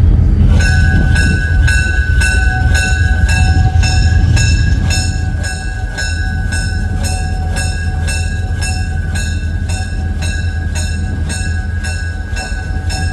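Locomotive bell ringing steadily, about two to three strokes a second, starting just under a second in, over the low, steady rumble of the locomotive running.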